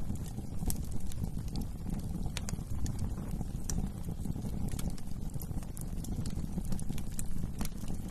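Wood fire in a fireplace burning steadily: a low rumble of flames with irregular sharp crackles and pops from the burning logs, several a second.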